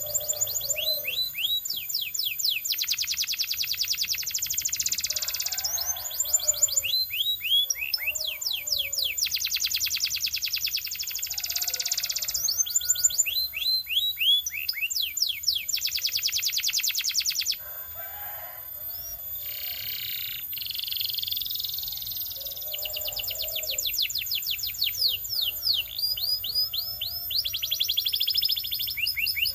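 Belgian canary singing a continuous song of rapid trills. Runs of quick repeated chirping notes alternate with dense, fast rolls lasting a few seconds each, with a short change of phrase a little past the middle.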